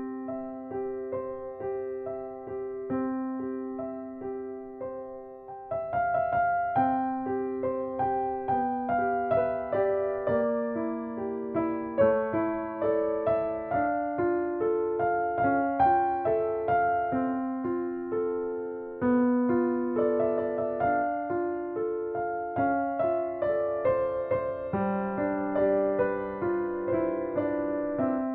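Background piano music: a gentle melody of single notes over repeating chords, growing fuller about six seconds in.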